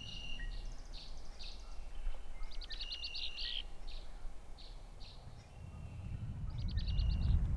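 Small birds calling: scattered high chirps, with a rapid trill about three seconds in and another near the end, over a low outdoor rumble that grows louder near the end.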